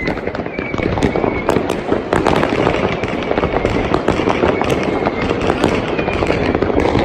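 Dense New Year's Eve fireworks and firecrackers: a continuous crackle of many bangs near and far, with a faint high whistle now and then.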